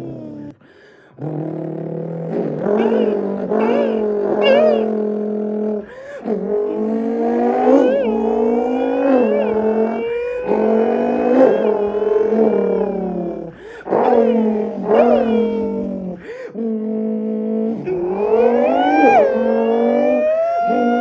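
A man's mouth imitating a supercharged Chevrolet Camaro ZL1 V8: a buzzing vocal engine note that climbs in pitch as if revving up through the gears, drops back and climbs again, broken by short pauses.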